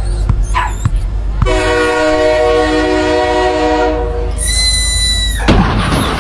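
Cartoon sound effects: a loud horn blast held for about three seconds over a low rumble, then a shrill whistle for about a second, ending in a burst of noise.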